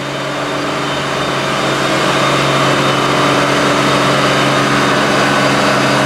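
Diesel engine of a Mitsubishi Fuso HD truck working hard under load as it pushes through mud. It grows steadily louder over the first couple of seconds, then holds steady.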